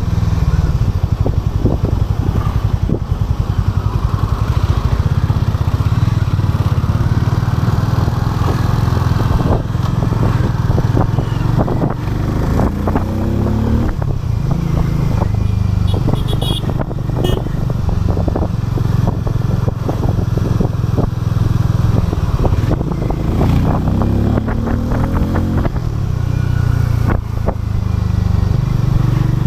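Harley-Davidson X440's single-cylinder engine running, its pitch climbing twice as the revs rise, about halfway through and again near the end.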